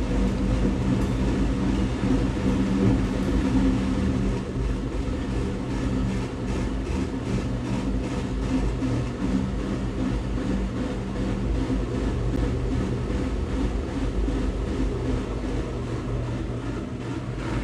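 Electric train heard from inside the driver's cab: a steady hum from its electrical equipment over a low running rumble, with faint regular ticks from about six seconds in.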